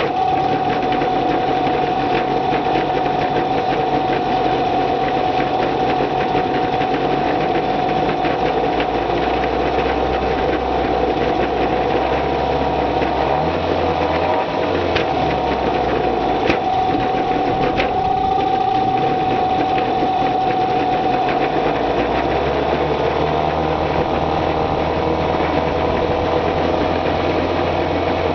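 Small outboard boat motor running steadily at idle on its first run after winter storage, while its idle speed is being set.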